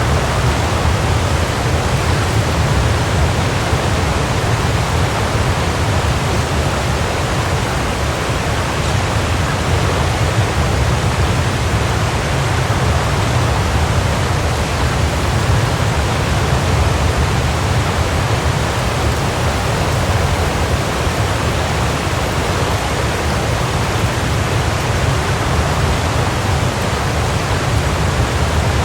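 Waterfall, water falling and crashing in a steady, deep rush with no breaks.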